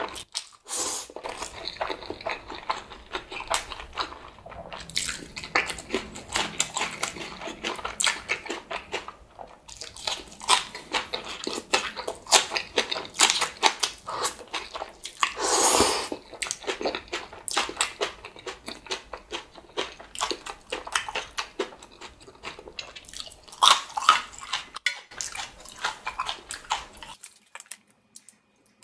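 Close-up eating sounds: chewing and biting instant black bean noodles (Chapagetti) and spicy green onion kimchi, a dense run of short clicks with one longer, louder noisy sound near the middle.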